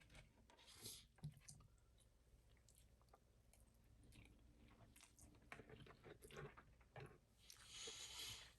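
Faint chewing and mouth sounds of someone eating Chinese food, with scattered small clicks and crackles and a soft rushing sound near the end.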